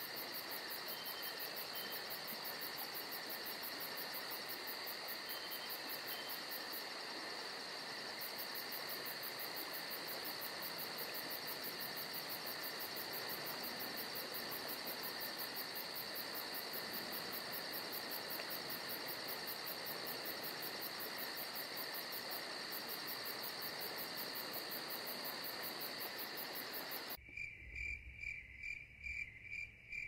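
Insect chorus, crickets chirping steadily with a fast high trill over a soft hiss; a few seconds before the end it changes to evenly spaced chirps about three a second.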